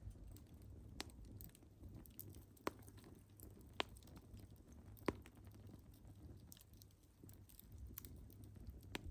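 Wood fire crackling softly: scattered sharp pops and snaps a second or more apart, over a faint low rumble.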